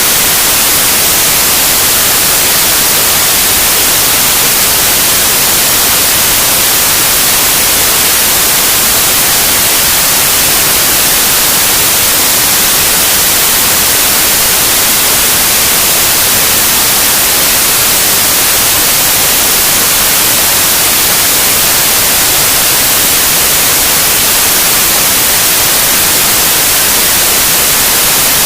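Loud, steady white noise: an even hiss, strongest in the high frequencies, with no change.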